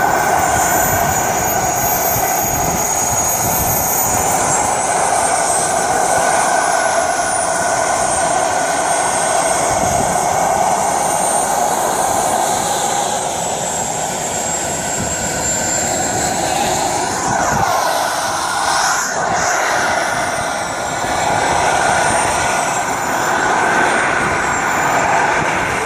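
Radio-controlled model jet flying overhead: a steady rushing noise with a high-pitched whine that wanders up and down in pitch as the throttle and distance change, and a quick rise-and-fall sweep about two-thirds of the way through as it passes close.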